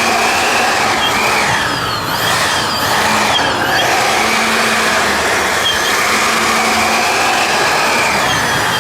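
Two 90 mm electric ducted fans running at high power: a loud, steady rushing whine whose pitch wavers slightly.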